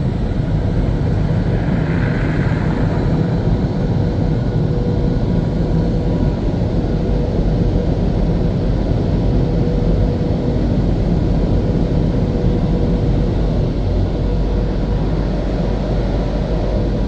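WashTec SoftLine 2 car wash blower dryers running: a loud, steady rush of air from the fan motors, with a faint steady hum.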